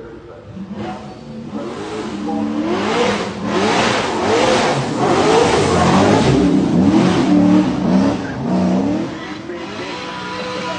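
BMW E39 M5 S62 4.9-litre V8 in a 1968 Dodge Challenger revving hard, its pitch climbing and dropping back several times in quick succession. It grows louder from about two seconds in and settles to a steadier run near the end.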